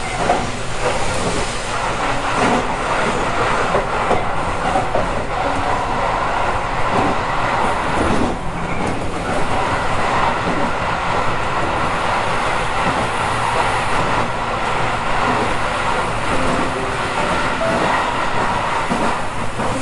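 Electric commuter train running, heard from inside the front car: a steady rumble of wheels on rail with a few clicks.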